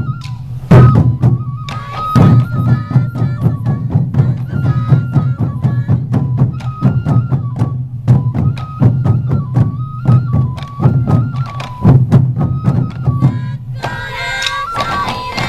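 Sansa odori festival music: massed taiko drums beating in a driving rhythm under a bamboo flute (fue) melody that steps between a few high notes. Near the end the drumming drops back and a different sound with many overtones takes over.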